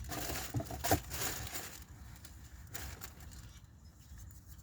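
Light clicks and rustling from plastic HVAC blend-door actuators being handled, several in the first second and one more about three seconds in.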